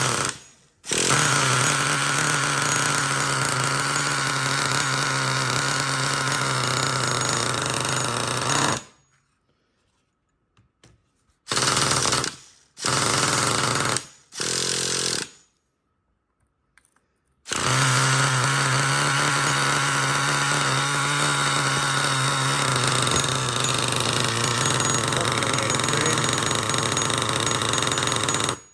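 Two-stroke glow-fuel nitro engine of a Traxxas Revo 3.3 RC truck running at a steady pitch. It runs in long stretches that stop abruptly, with three short bursts midway.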